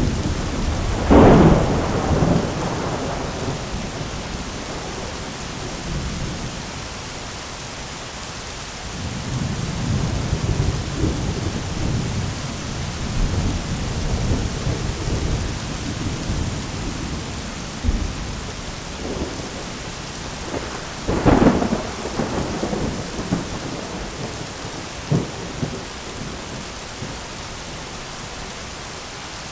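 Thunderstorm: steady heavy rain hiss with rolling thunder. A sharp crack of thunder comes about a second in and another about 21 seconds in, with a long low rumble in between.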